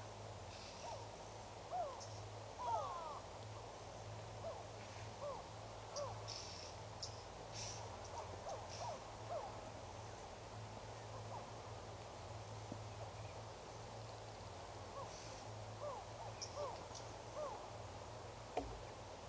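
Wild birds calling: scattered short chirps and quick swooping whistles, a few at a time, over a steady low hum.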